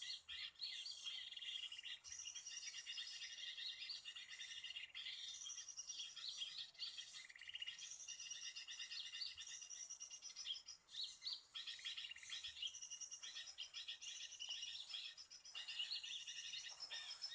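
Small birds chirping in fast, overlapping trills that go on without a break, fairly faint, with brief pauses about a third of a second in and around eleven seconds in.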